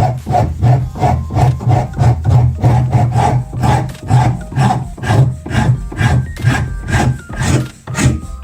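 Hand filing strokes, back and forth at a steady pace of about three a second, as part of reshaping the knife.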